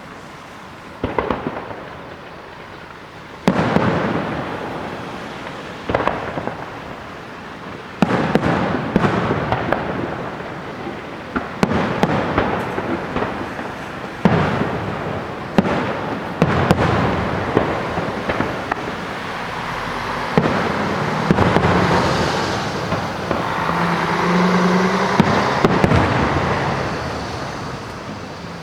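Aerial firework shells bursting: a string of sharp booms a second or two apart, each trailing off in a rolling echo. Near the end the bursts come thick and fast and run together into continuous crackle and booms.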